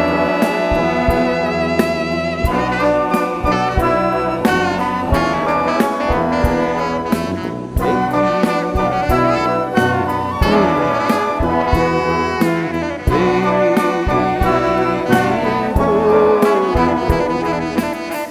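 Live band playing, with sustained horn lines over drum hits.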